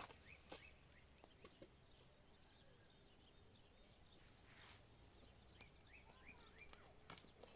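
Near silence: faint outdoor ambience with scattered short faint chirps and a few soft clicks.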